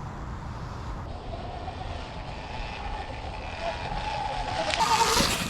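Sur Ron X electric dirt bike riding along a trail: a steady low rumble of tyres and suspension, with a faint electric-motor whine that rises a little. A louder rush of noise comes near the end.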